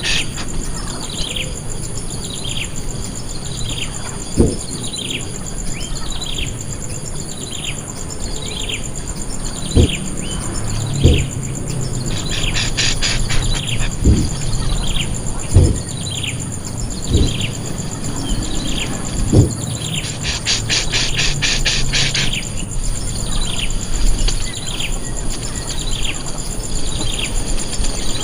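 A bird repeating a short call that slides downward, about once a second, over a steady high insect drone. Rapid buzzy ticking breaks in at the start, about a third of the way in and again about three quarters through. A few dull low knocks stand out as the loudest sounds.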